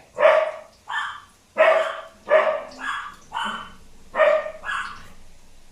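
Dog barking repeatedly, about eight short barks in quick succession that stop near the end.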